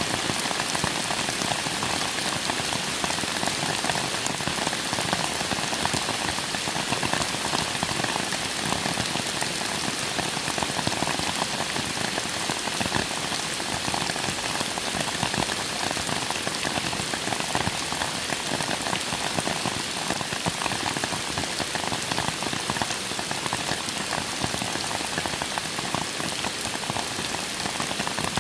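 Steady rain falling, with a dense, even mass of individual drops striking surfaces.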